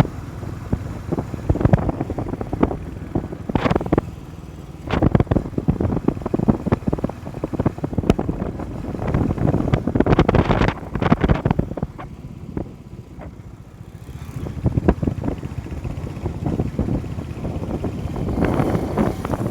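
Motorcycle riding along with wind buffeting the microphone in irregular gusts; it calms briefly about two-thirds of the way through.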